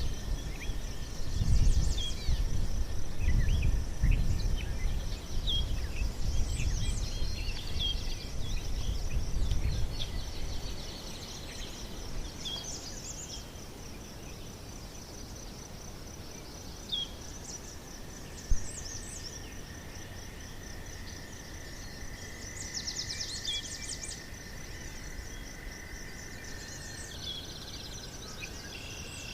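Outdoor nature ambience: insects trill steadily at a high pitch while birds give scattered short chirps. A low rumble underneath dies away about a third of the way through.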